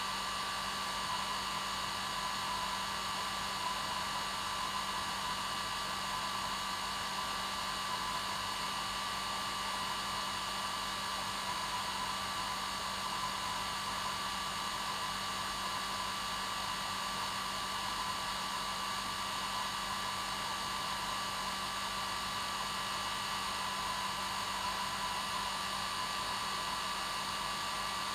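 Hair dryer running steadily on its normal setting: an even whooshing hiss with a steady whine near 1 kHz and a low hum.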